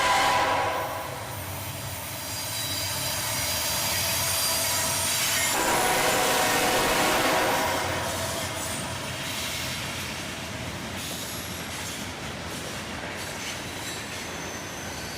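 Norfolk Southern freight train's diesel locomotives passing, with a short horn blast at the start and a longer, louder one about five and a half seconds in. A high-pitched wheel squeal runs under the rail noise.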